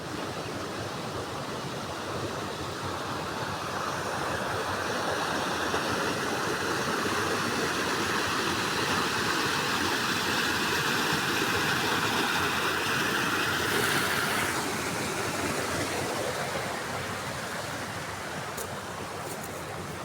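Steady rush of flowing river water. It grows louder a few seconds in and eases off after about fourteen seconds.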